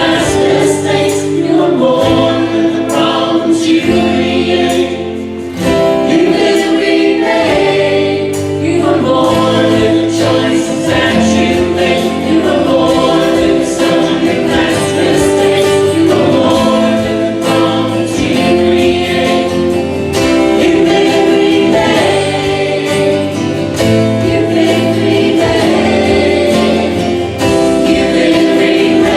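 A choir singing a hymn in held, sustained notes, with instrumental accompaniment and a bass line underneath.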